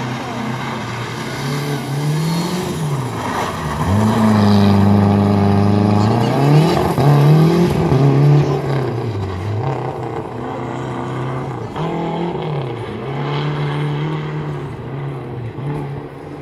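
Lancia Delta Integrale Evo 1's turbocharged four-cylinder engine revving up and down repeatedly as the car is driven hard, with a longer held high rev a few seconds in before it drops away.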